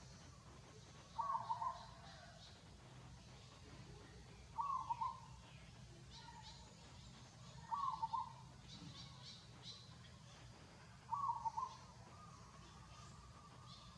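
A bird calling: the same short call four times, about every three seconds, with fainter high chirps in the background.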